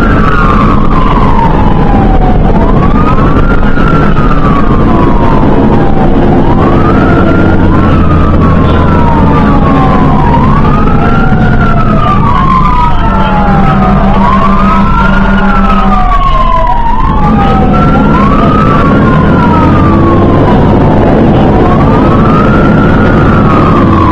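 Fire engine siren on a wail, rising and falling in pitch about every three and a half seconds over the truck's steady engine rumble. A steady horn blast of about four seconds sounds over it near the middle.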